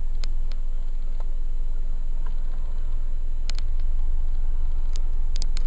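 A few light clicks of the car's dashboard and steering-wheel control buttons being pressed, two in quick succession about three and a half seconds in and a cluster near the end, over a steady low rumble.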